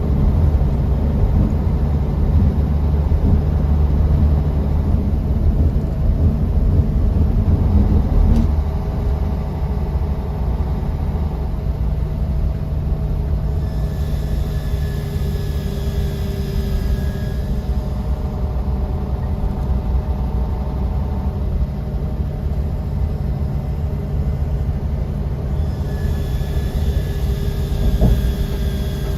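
Interior sound of a moving bus: the engine and road give a steady low rumble, with faint whines coming in around the middle and again near the end, and a single knock near the end.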